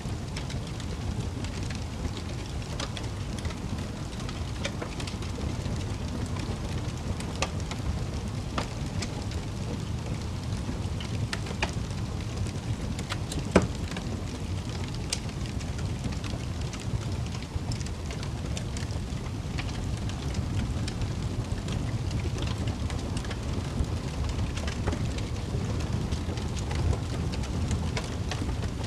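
Wood fire crackling in a fireplace: a steady low rumble of the flames with scattered sharp pops and snaps, one louder pop about halfway through.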